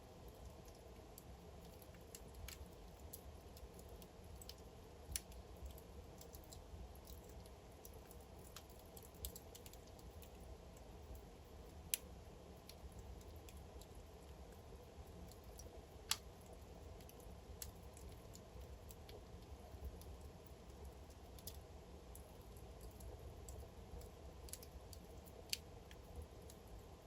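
Wood fire crackling: irregular sharp pops and snaps from burning logs, two louder cracks about twelve and sixteen seconds in, over a faint steady low rumble of the flames.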